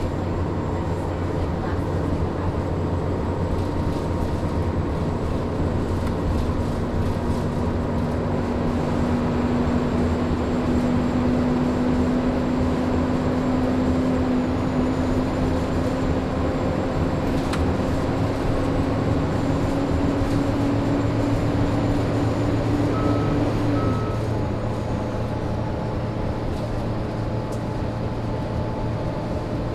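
Inside a 2002 Neoplan AN440 transit bus on the move: the Cummins ISM diesel and its engine cooling fan run loud and steady, the fan stuck on. A droning tone climbs slowly in pitch and cuts off abruptly about four-fifths of the way through. Two short high beeps sound just before it cuts off.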